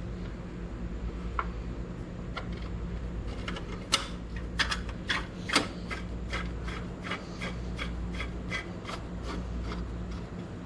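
A screwdriver starting a headlight mounting screw by hand: a run of sharp clicks and rasps, a few at first, then about two or three a second from about four seconds in. A steady low hum runs underneath.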